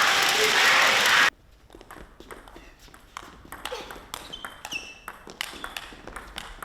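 Loud hall crowd noise of cheering and clapping cuts off abruptly about a second in. It gives way to a table tennis rally: the celluloid ball clicking off rackets and table at an irregular quick pace, with a few short shoe squeaks on the court floor.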